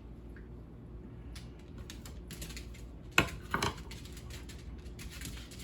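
Light clicking and tapping of kitchen handling as sliced onion rings are moved onto a small plate, with two sharper knocks about three seconds in, over a faint steady hum.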